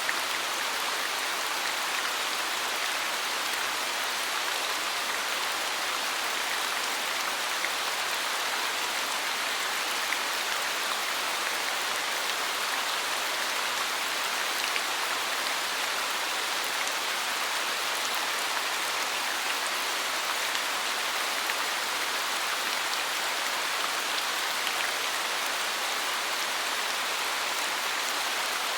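Steady rain falling on a forest, an even hiss of many drops with faint scattered drips standing out.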